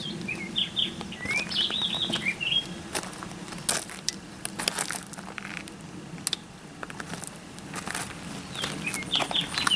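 Small birds chirping in short quick notes and slurs, mostly in the first couple of seconds and again near the end, over scattered sharp clicks and knocks from handling.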